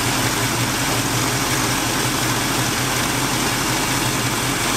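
Worn, fully warmed-up carbureted truck engine idling steadily while its idle mixture screws are turned toward the smoothest, highest-vacuum setting.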